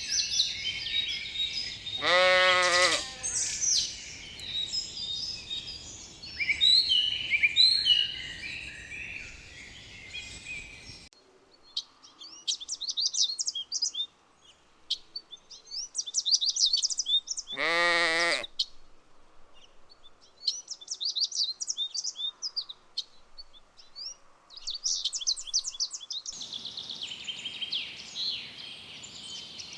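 Sheep bleating twice, once a couple of seconds in and again just past halfway, each a single wavering call of under a second, over steady birdsong.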